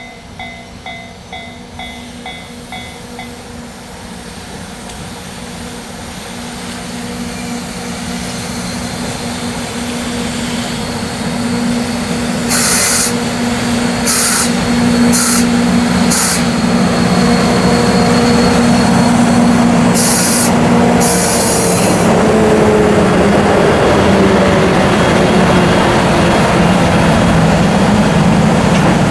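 JNR EF64 electric locomotives double-heading a freight train running into the station and slowing to a stop, their running noise building steadily. Short bursts of compressed-air hiss come twice, and a motor whine falls in pitch as the train slows. A warning bell ringing a couple of times a second dies away in the first few seconds.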